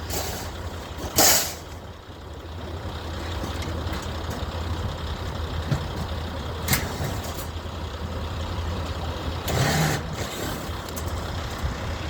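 Heavy truck engine idling as a steady low rumble, broken by a few short, sharp bursts of noise. The loudest burst comes about a second in, and others come around seven and ten seconds.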